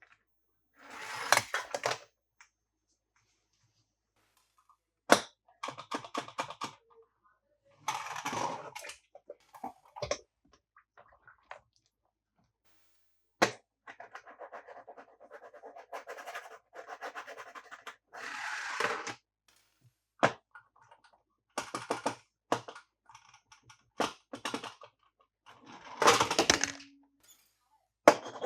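Plastic toys handled and set down: a series of rustles and scrapes broken by sharp clicks and knocks, with silent gaps between.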